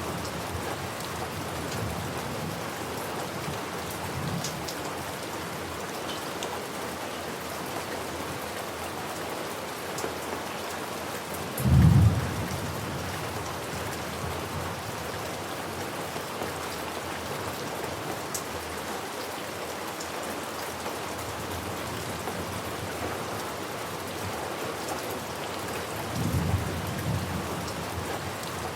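Steady heavy rain falling, with a short, loud low thunderclap about twelve seconds in and a softer rumble of thunder near the end.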